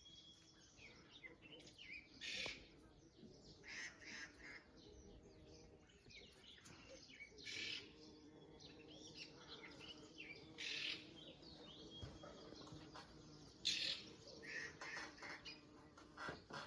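Several birds chirping, with a mix of short, varied calls and louder bursts of chirping every few seconds.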